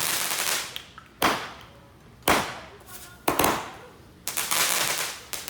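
Fireworks going off: five sharp bangs about a second apart, each trailing off in a fading hiss.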